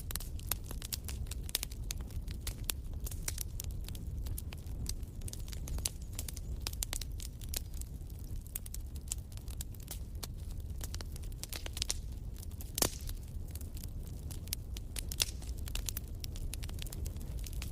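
Fire in a fireplace crackling, with irregular sharp pops over a steady low rumble, one louder pop about 13 seconds in.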